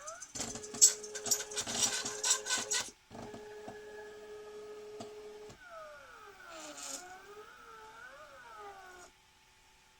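Stepper motors of a 3D-printed SCARA robot arm: a steady whine, with a run of clicks and rattles in the first three seconds. From about halfway the whine glides up and down in pitch as the arm moves, then it stops sharply near the end.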